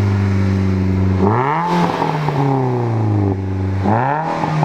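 Car engine heard through its exhaust, held at a steady drone and revved twice, the pitch rising quickly with each throttle blip and then sinking slowly back.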